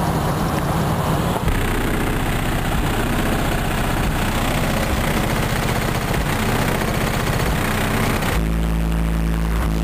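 Kicker Comp 15-inch car subwoofers, driven by a Hifonics amplifier, playing bass-heavy music at high volume, the deep bass overwhelming the microphone. About eight seconds in, the bass drops to a deeper, heavier, steady note.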